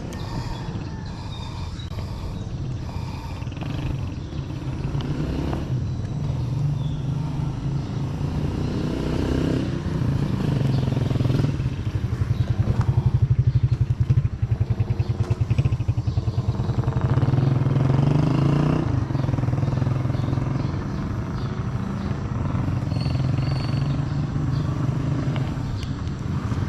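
Motorcycle engine running while riding, its pitch rising and falling a few times as the revs change.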